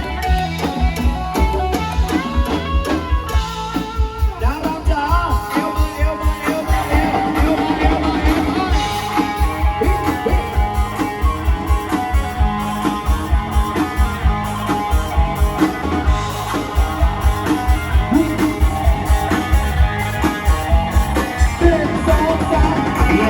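Loud Thai procession band music with a heavy, regular drum beat, guitar and some singing.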